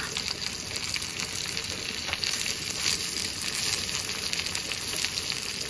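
Green chillies, carrot sticks and pickle masala sizzling steadily in hot mustard oil in a small steel pan.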